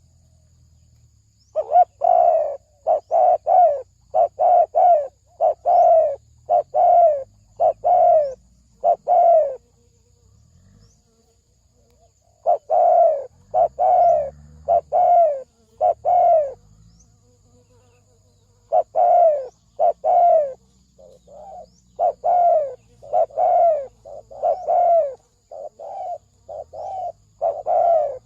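Spotted dove of the deep-voiced 'thổ sấm' type cooing in quick runs of short, falling coo notes. It gives three bouts, with pauses of a couple of seconds between them.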